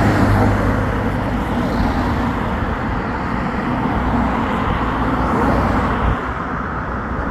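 Steady engine hum and road noise of a car driving in traffic.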